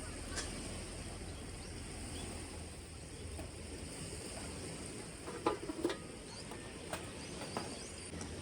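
Steady background noise with a low hum, and a few sharp clicks and knocks a little past the middle.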